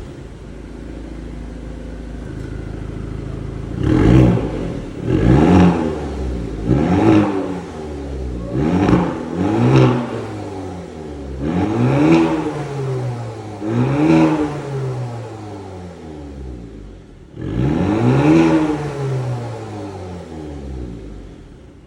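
Maserati Grecale engine idling and then revved about eight times through a modified exhaust with a reworked mid-section. Each rev rises and falls quickly, and the engine drops back to idle in between.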